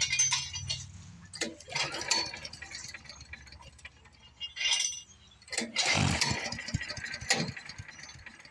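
A Predator small gas engine being pull-started on a wood chipper: five or six short rattling cranking bursts, and the engine never catches and runs. The owners suspect it is not getting fuel.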